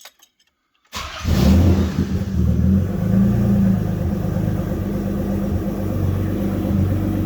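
Nissan 300ZX (Z32) twin-turbo V6 starting from cold: a few faint clicks, then about a second in the engine catches at once, flares up briefly, and settles into a steady idle.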